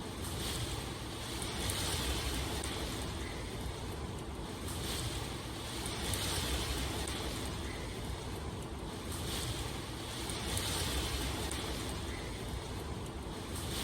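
Steady rain falling, an even hiss that swells and eases gently every couple of seconds.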